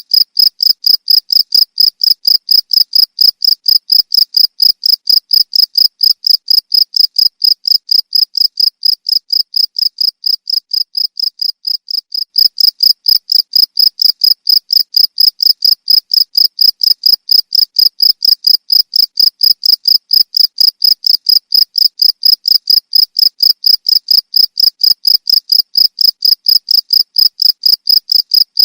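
Cricket chirping in a steady, even rhythm of high-pitched chirps, about three a second.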